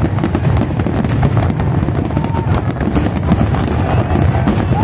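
A dense aerial fireworks barrage: many shells exploding in rapid, overlapping succession, a loud steady mass of bangs and crackle with no pause.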